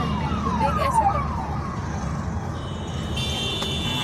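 Emergency vehicle siren sounding a fast run of falling yelps, about three a second, that fade out a little over a second in. It is heard from inside a car cabin over the steady rumble of the road and engine.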